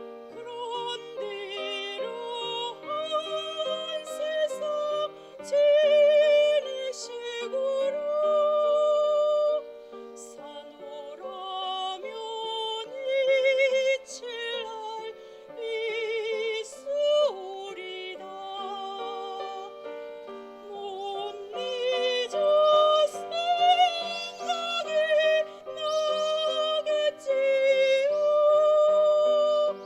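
A woman singing a Korean art song in classical soprano style, with wide vibrato on long held notes, over instrumental accompaniment.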